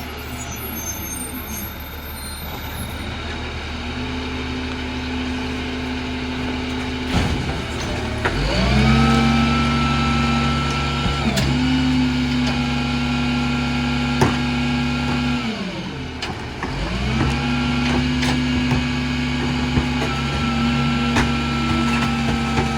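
Diesel engine of a Freightliner garbage truck with a Heil Formula 4000 rear-loader body, revving up and holding at a higher speed, dropping back briefly, then revving up and holding again, as it does when the packer is cycled. A few sharp metal clanks sound along the way.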